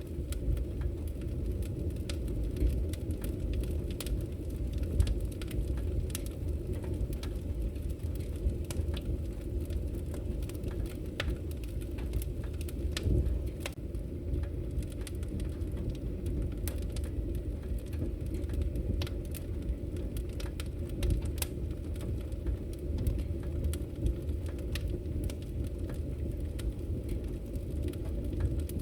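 Wood fire crackling in a fireplace: frequent sharp pops and snaps over a steady low rumble of the burning fire.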